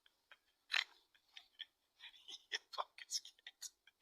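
Sand being scooped and patted by hand: an irregular run of short, crunchy scrapes and clicks, busiest in the second half.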